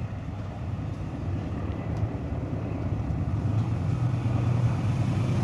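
KAI CC203 diesel locomotive approaching, its low engine rumble growing steadily louder.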